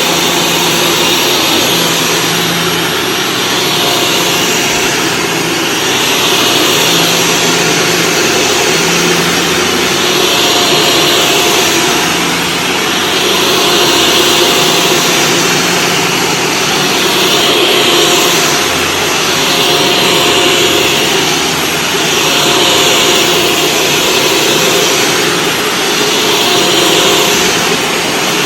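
Shark Stratos vacuum cleaner running with its brushroll on carpet, a steady motor whine and rush that swells and eases about every two seconds as it is pushed back and forth.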